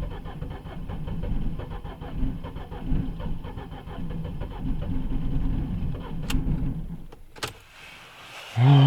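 A car's starter motor cranks the frozen engine for about seven seconds. The engine turns over heavily and does not catch: a failed cold start in deep frost. The cranking stops with a click, and a man's voice comes in near the end.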